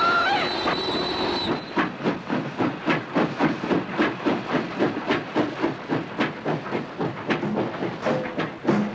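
Train running on rails, its wheels clicking over the rail joints in a steady rhythm of about three knocks a second, with a high steady tone like a whistle or squeal over the first second and a half.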